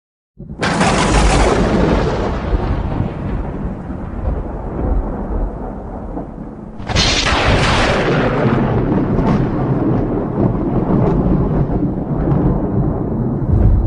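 Two thunderclaps, each a sudden crack followed by a long rolling rumble. The first comes out of silence about half a second in, and the second about seven seconds in.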